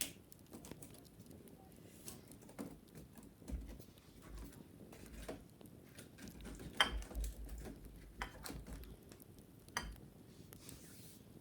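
Wicker basket being handled during cleaning: irregular light taps, clicks and scratches on the weave, with a few dull bumps in the middle stretch and one sharper tap about seven seconds in.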